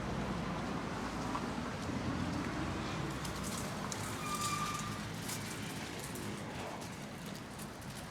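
Outdoor city street ambience: the low rumble of a passing road vehicle fades away in the first few seconds, leaving a steady traffic hiss.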